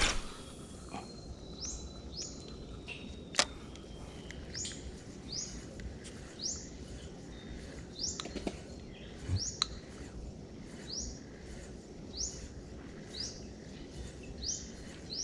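A bird calling a steady series of short, high chirps, each sliding upward in pitch, a little more than one a second, over a constant background hiss. A single sharp click comes about three seconds in.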